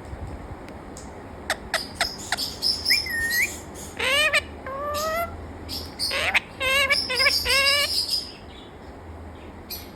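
Parrot calling: sharp clicks and rising whistled chirps, with a quick warbling trill a little before the calls stop about eight seconds in.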